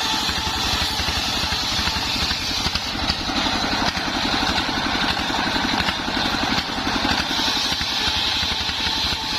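Engine of a homemade circular sawmill running steadily, its firing heard as an even low pulse, with a steady high whine from the spinning saw.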